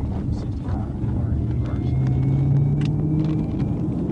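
Police patrol car's engine and road rumble heard from inside the cruiser during a high-speed pursuit, the engine note climbing a little midway through.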